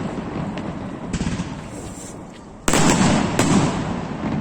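Fireworks bursting overhead: the boom of one burst fades out, then a sudden loud bang about two-thirds of the way in is followed quickly by a second. Each bang trails off in a long, slow fade.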